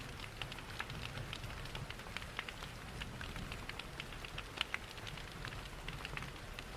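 Rain pattering mixed with a crackling wood fire: a thick scatter of small snaps and drops, with one louder pop about two-thirds of the way through. Underneath runs a steady low rumble of falling water from a waterfall.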